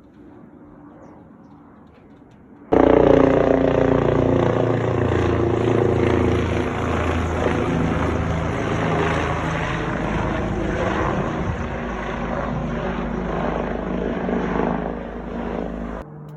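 Aircraft engine passing close by: a loud engine drone whose pitch slowly falls as it goes past. It starts abruptly about three seconds in after faint ambience and cuts off suddenly near the end.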